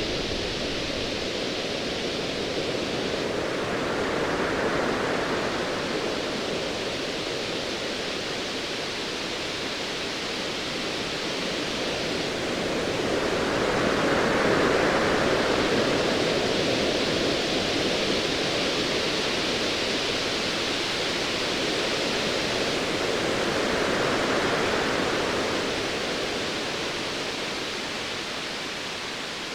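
Ocean waves as an even hiss of surf that swells and ebbs about every ten seconds, fading down near the end.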